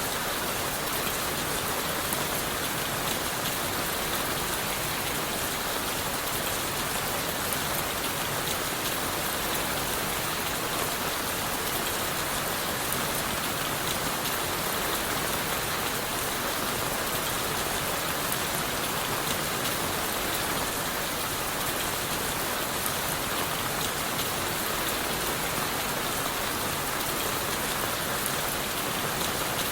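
Steady rain falling on leaves and wood, a dense even patter with many small drops ticking.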